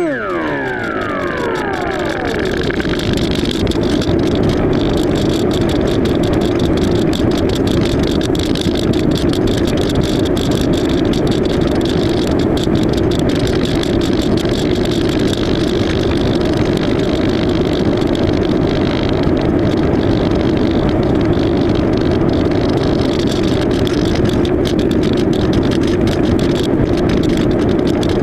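Electric motor and propeller of an AXN Floater-Jet RC plane running steadily, heard on board with wind rushing over the microphone. At the start several tones glide down in pitch over about two seconds before settling into a steady hum.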